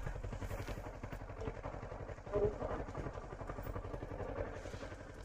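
Motorcycle engine running steadily as the bike is ridden, a low pulsing rumble, with a short louder sound about halfway through.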